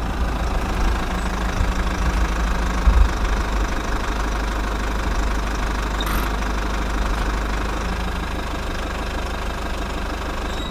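Mini diesel engine running steadily at a fast, even beat.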